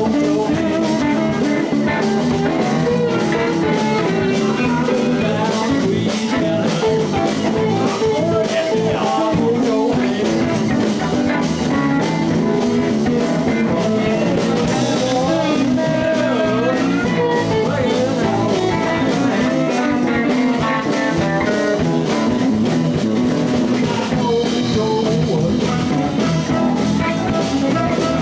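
Live blues band playing: electric guitar over bass and a drum kit keeping a steady beat, with bending notes about halfway through.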